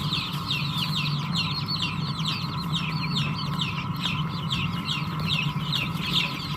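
A brooder full of young chicks peeping continuously: many short, high, downward-sliding peeps overlapping several times a second, with a steady hum underneath.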